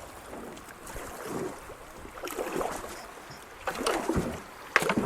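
Kayak paddle strokes splashing and dripping in creek water at an uneven pace, with a sharp knock near the end.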